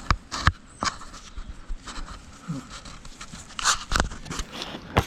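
A few sharp knocks and clicks of hands and tools at work, with a brief rustling scrape a little before the fourth second.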